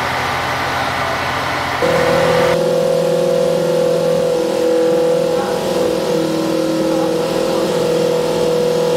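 Formula Student race car engine running; about two seconds in its sound changes abruptly to a higher, steady note held at a few fixed pitches.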